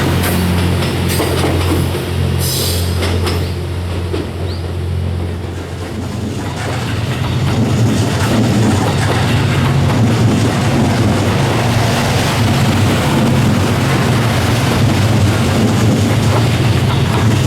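Series 87 diesel-hybrid train passing, its engines humming low and steady under the rumble and clatter of wheels on rail. About six seconds in the sound shifts as a new take of the pass begins, and the rumble grows louder.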